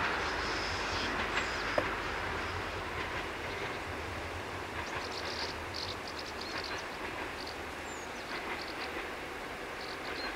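A Transferoviar Calatori VT614 (ex-DB class 614) diesel multiple unit running past in the distance. Its engine and rail noise is a steady rumble that slowly fades as the train draws away.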